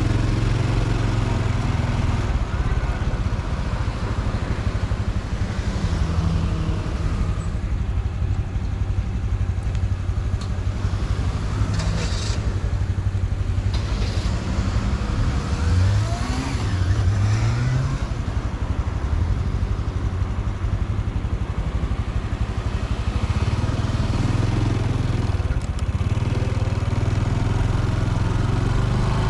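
A Honda Super Cub C125's single-cylinder engine running steadily under way, with a couple of short rises in pitch about halfway through as it accelerates.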